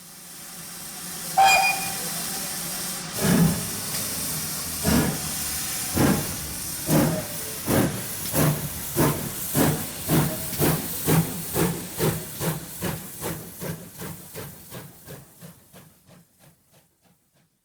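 Steam locomotive pulling away: a hiss of steam and a short whistle, then exhaust chuffs that quicken steadily and fade out.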